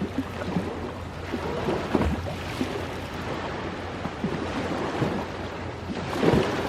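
Ocean waves washing in with a steady rush, mixed with the irregular crackling and popping of a wood campfire. The waves swell louder about six seconds in.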